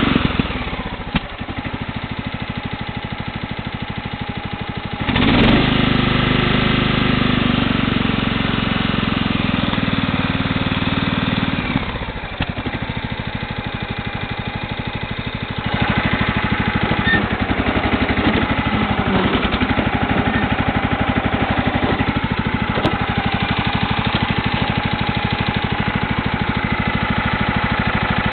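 Sears Craftsman LT1000 riding lawn tractor's engine running steadily. Its note steps down about a second in, comes up louder about five seconds in, drops again around twelve seconds, and comes back up around sixteen seconds.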